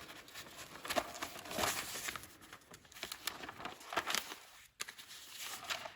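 Faint, intermittent rustling and crinkling handling noise, a scatter of short sharp scrapes and crackles.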